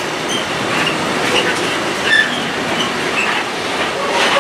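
Loaded container flat wagons of a freight train rolling past at close range: a steady rumble of wheels on rail with knocks over the rail joints and short, high wheel squeals now and then.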